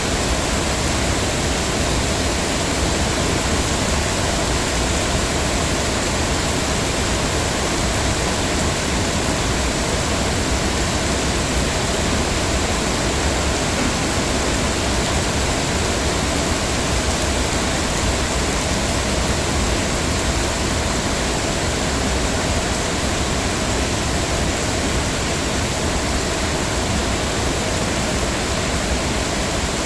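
Heavy rain falling steadily: an even, unbroken hiss with no single drops or other sounds standing out.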